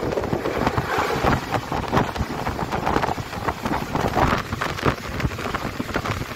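Indian Railways passenger train running at speed: a steady rumble of wheels on the rails, broken by many short irregular knocks, with wind on the microphone.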